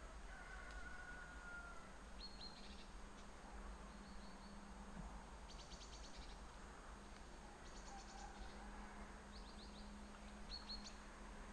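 Faint songbirds: scattered short, high chirps and quick trills, with a drawn-out whistled note about half a second in. A steady low hum runs underneath.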